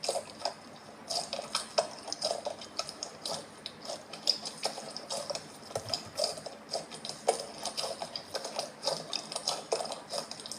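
Foam slime being squeezed and kneaded, giving off rapid, irregular small crackles and pops.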